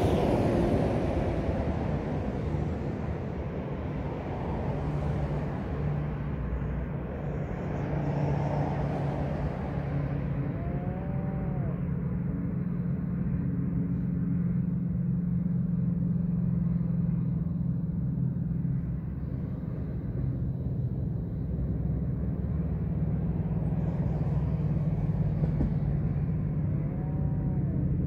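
A car engine running steadily, with road noise. Twice, about eleven seconds in and again near the end, a short call rises and falls in pitch.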